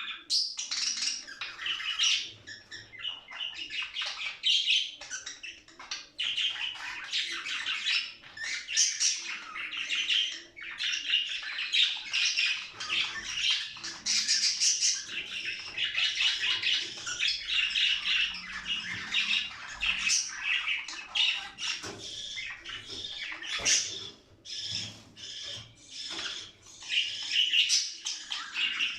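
Budgerigars chattering and warbling without a break, a dense stream of quick chirps, squawks and trills.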